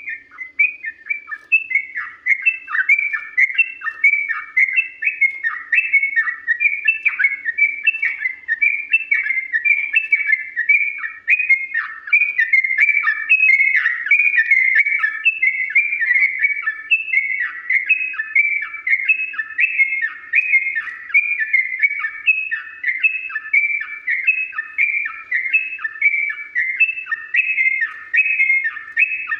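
Yellow-vented bulbul (trucuk) singing a long unbroken run of short, quick chirping notes that repeat in rapid succession. It starts abruptly.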